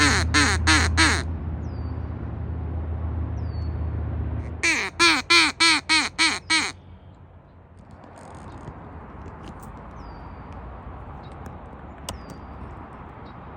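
Duck quacking in two loud runs of rapid, harsh quacks: about five right at the start and about seven some five seconds in.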